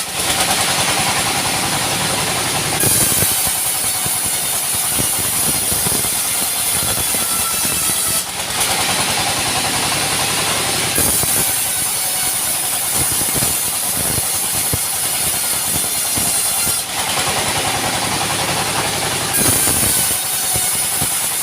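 Sawmill machinery running: a steady engine drone with a high shrill whine, its character changing every few seconds.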